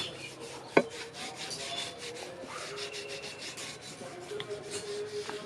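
Rapid, repeated rubbing and scraping strokes, like hand filing or rasping, with one sharp tap about a second in.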